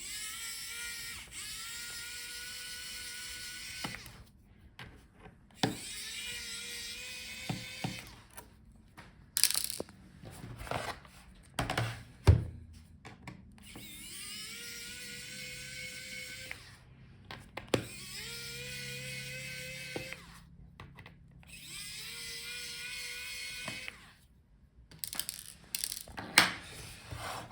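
Electric precision screwdriver with a T5 Torx bit backing out a laptop's bottom-case screws: about five short whirring runs of two to four seconds each, the pitch rising as the motor spins up at each start. Sharp clicks come between the runs.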